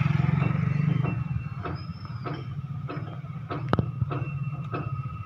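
John Deere tractor's diesel engine running steadily at idle. Scattered light clicks and one sharper tap just past the middle sit on top of it.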